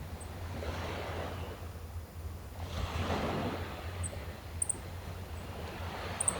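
Gentle sea waves washing onto the shore, the surf swelling and fading every couple of seconds over a steady low rumble. A few brief high bird chirps come through, twice in quick pairs.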